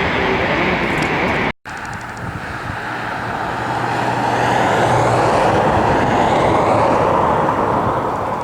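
Jet airliner engine noise, broken by a sudden cut about a second and a half in, then another jet passing that swells in loudness and eases off near the end.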